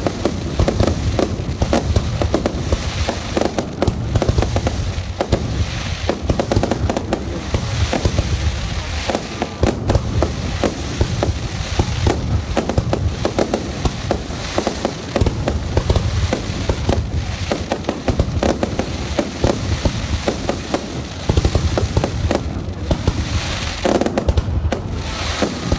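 Aerial fireworks display: shells launching and bursting overhead in a dense, unbroken run of bangs, many a second.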